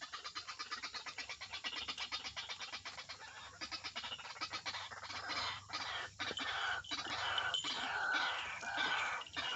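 White-breasted waterhen (ruak-ruak) calling: a fast run of repeated croaking notes, becoming louder in the second half as a steady series of downward-sliding calls.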